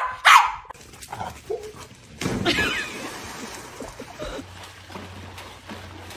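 A dog barking twice near the start, then giving a higher, whining yelp about two and a half seconds in.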